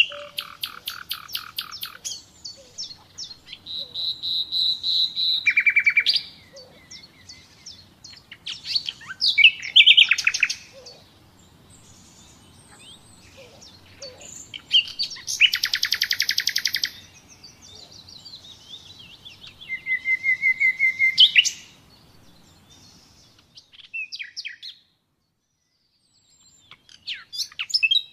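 Common nightingale singing: a string of separate phrases of rapid repeated notes, trills and whistles, each a second or two long with short pauses between. Some phrases build in loudness as the notes repeat.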